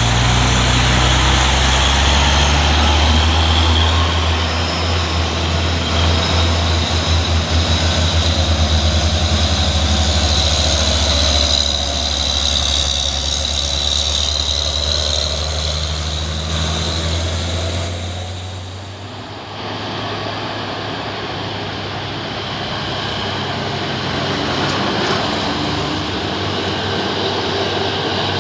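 Heavy truck's diesel engine running hard under load with a deep, steady hum that pulses for a while. About two-thirds of the way in it drops away, leaving a quieter, steady rumble.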